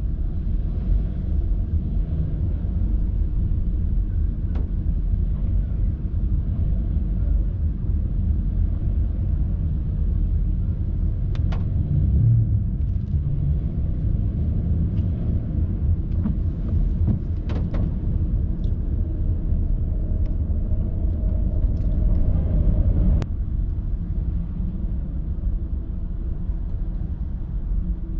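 Steady low vehicle rumble, with a few faint clicks and one sharper tick about two-thirds of the way through.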